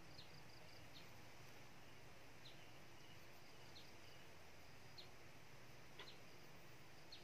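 Near silence: faint outdoor ambience with a short, high chirp of a small bird repeating about once a second or so. A soft click about six seconds in.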